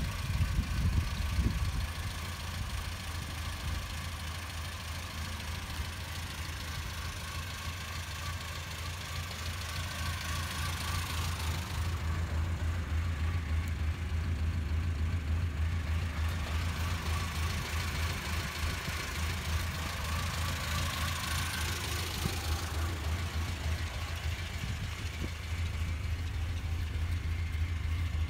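Lancia Fulvia's narrow-angle V4 engine idling steadily.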